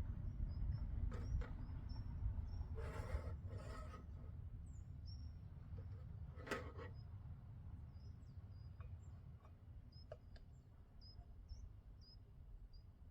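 Small birds chirping in a forest: short, high calls repeated every second or so, over a low rumble that slowly fades. A few brief knocks about three and six and a half seconds in.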